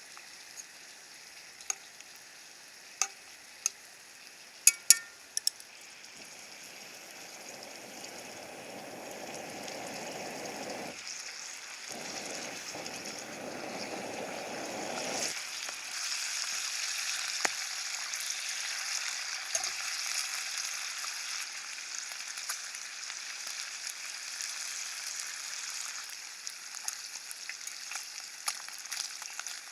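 Food sizzling in a frying pan over a campfire. The sizzle builds from about six seconds in and stays loud to the end. Sharp pops or clicks come in the first few seconds, and a duller rushing sound sits under the sizzle for several seconds in the middle.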